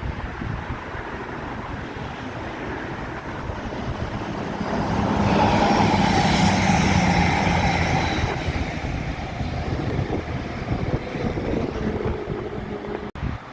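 A train passing through the station on the Midland Main Line. The noise builds to a peak about halfway through, with some whining tones, then eases off.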